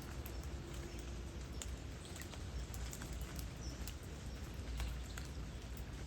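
Light rain: many scattered drops ticking and pattering irregularly over a steady soft hiss and a low rumble.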